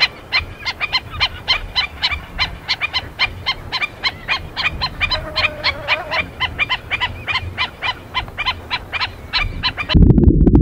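A rapid, continuous series of honking barks from sea lions, about five calls a second. Near the end they cut off and a loud low rumbling noise takes over.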